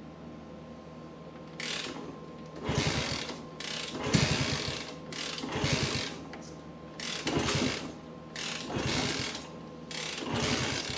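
Ratchet wrench worked in repeated strokes, a burst of fast clicking about every second and a half, seven times or so, as parts on a vintage motorcycle engine are backed out.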